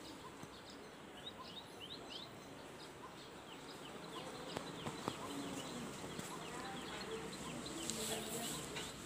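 Outdoor ambience of many short, high bird chirps, each falling in pitch, repeating throughout over a faint steady hiss, with a couple of sharp clicks about five seconds in.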